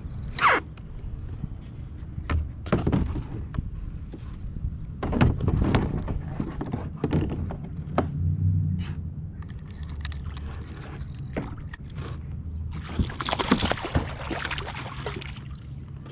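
Knocks and rustles of handling aboard a kayak while fighting a hooked bass, over a low rumble, with a burst of splashing water about thirteen seconds in.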